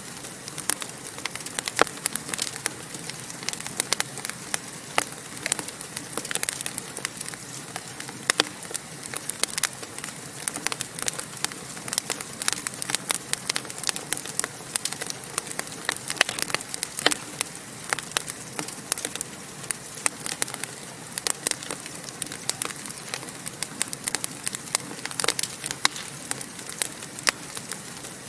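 Wood fire burning in a fireplace: a steady hiss with many sharp, irregular crackles and pops, several a second.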